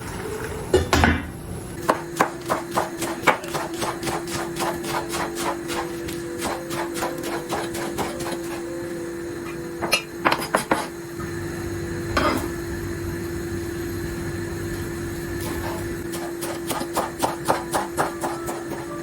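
Knife chopping on a wooden cutting board: runs of quick, even strikes at about three a second, a pause with a single louder knock, then more chopping near the end.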